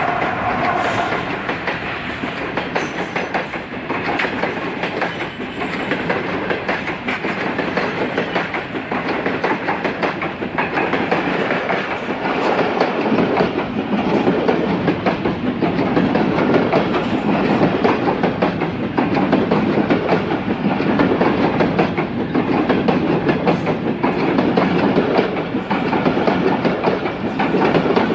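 Train passing close by at a level crossing, its wheels clattering steadily over the rail joints, louder in the second half.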